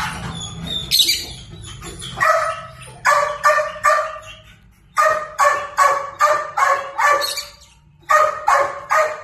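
An animal giving short, sharp bark-like calls in quick succession, about two to three a second. They come in three bouts of about four, six and three calls.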